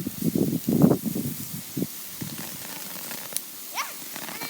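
Steady hiss of a small consumer fountain firework spraying sparks. There are low voice-like sounds in the first two seconds and a short rising chirp near the end.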